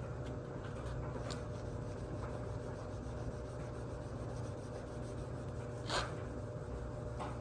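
Wet sandpaper, about 1,000 grit, rubbed by hand over an oxidized plastic headlight lens: a steady scrubbing, with one brief sharper scrape about six seconds in.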